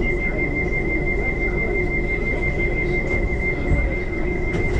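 Electric passenger train running, its rumble overlaid by one steady high-pitched whine held throughout, with a few faint clicks near the end.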